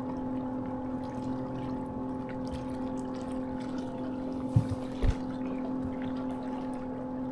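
Boat motor running with a steady pitched hum. Two short low thumps come about two-thirds of the way through.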